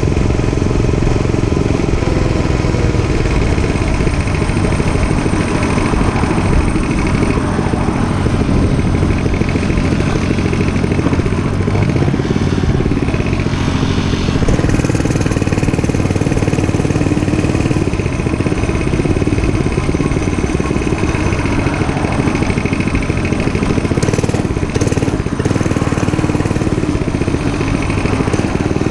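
Dirt bike engine running steadily, with no clear revving or stopping.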